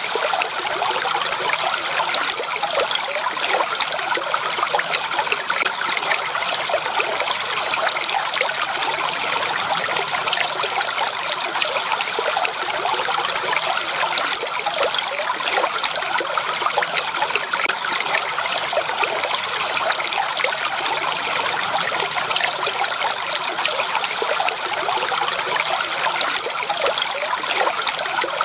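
A small stream flowing and trickling steadily, with a dense bubbling of water over stones.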